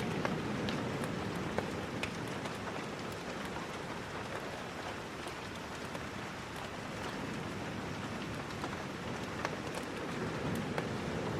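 Steady rain falling, with scattered sharp ticks and pops over it.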